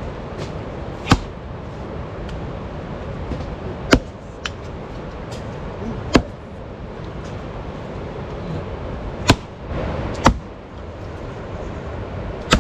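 A series of sharp, single knocks, about six of them, spaced unevenly one to three seconds apart, over a steady noisy background.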